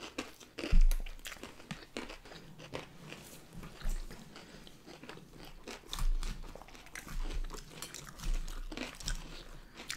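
Close-miked crunchy chewing and biting of salad with crisp lettuce and fried chow mein noodles: irregular crackling crunches throughout, with a louder low thump just under a second in.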